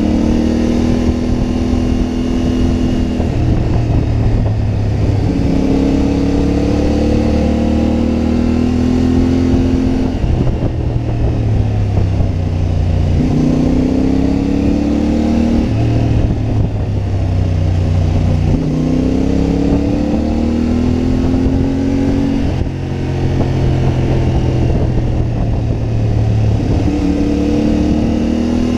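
CFMoto 450MT adventure motorcycle's parallel-twin engine under way. Its note rises under throttle and drops back again and again, as it accelerates, changes gear or eases off.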